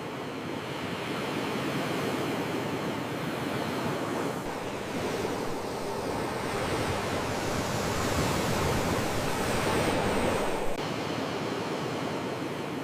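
Ocean waves washing in as a steady rush of surf that swells gradually and then drops off suddenly near the end.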